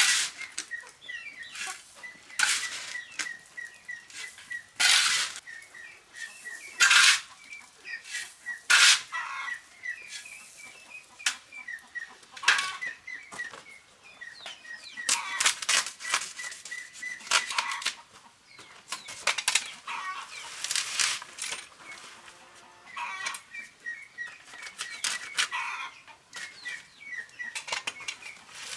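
Chickens peeping continually, under repeated irregular sharp scraping strokes.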